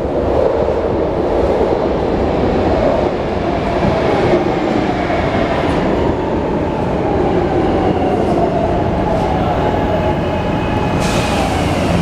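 SEPTA Market-Frankford Line subway-elevated train running, a steady rumble with whining tones that slowly slide in pitch. A sudden hiss starts near the end.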